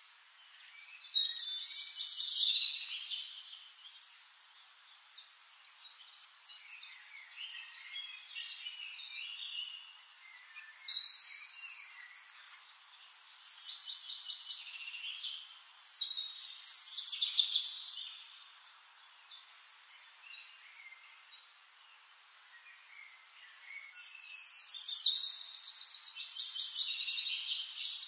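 Birds singing: chirps and trills in bursts a few seconds apart, the longest near the end with fast, rapidly repeated notes.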